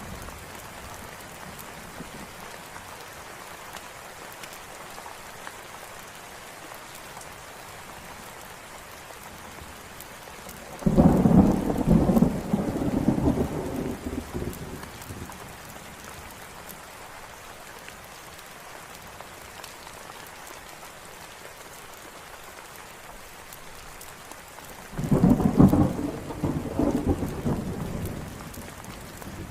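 Steady rain falling, with two rolls of thunder about fourteen seconds apart, each rumbling low for a few seconds before fading back under the rain.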